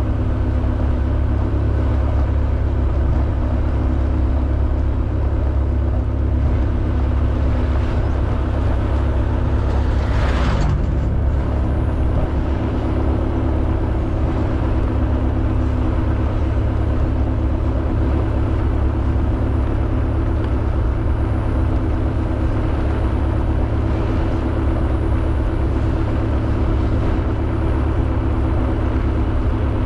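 Honda Beat 110cc scooter's single-cylinder engine running at a steady cruising speed, under heavy wind rumble on the camera microphone. A brief rushing sound swells and fades about ten seconds in.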